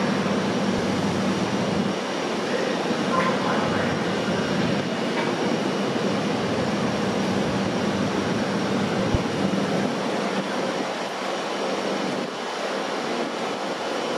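CTA 'L' rapid-transit train running on the track: a steady rush of wheel and rail noise with a constant hum underneath, the hum fading and the noise easing slightly near the end.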